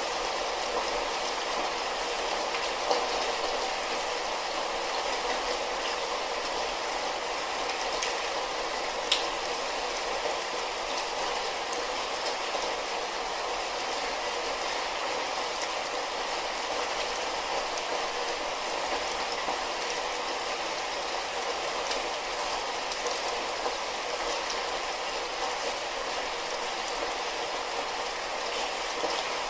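Light rain falling in a steady hiss, with a few sharper drop hits standing out now and then.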